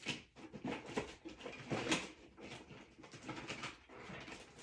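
Rummaging through craft supplies by hand: a quick run of rustles, clicks and light knocks as packets and small items are moved about.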